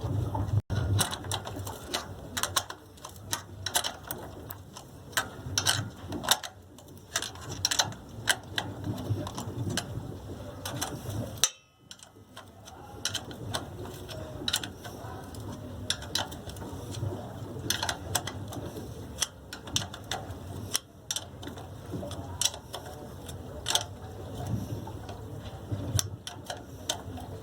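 Irregular clicks and clinks of hand tools and metal parts as an air filter box is fitted onto a small generator engine.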